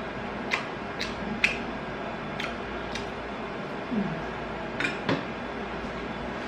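Eating crispy Korean fried chicken: several sharp crunches and clicks at irregular intervals, with a brief low hum about four seconds in.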